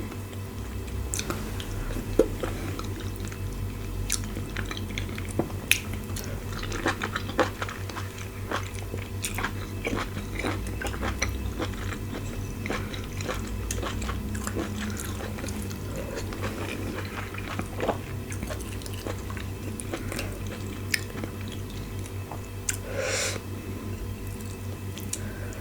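Close-miked eating: chewing and biting with many small wet mouth clicks and smacks as a person eats fufu with assorted meats and soup. A short breathy sound comes about 23 seconds in.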